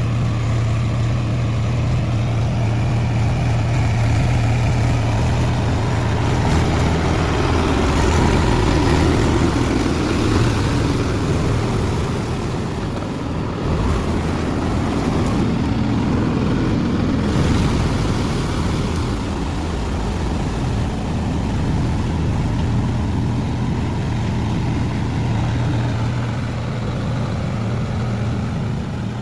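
Tractor's diesel engine running steadily under load as it works a wet paddy field, a low, even drone that swells about eight seconds in and eases slightly around thirteen seconds.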